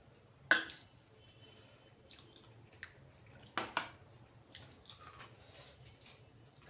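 Wet close-up eating sounds of mutton curry and rice: soft squelches with a sharp smack about half a second in and two quick smacks near the middle.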